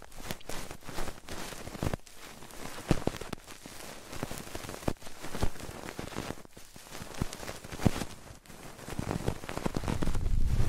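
Close-miked ASMR trigger sounds: a dense, irregular crackle of fingertip taps and rubbing on a microphone. A low rumble builds near the end.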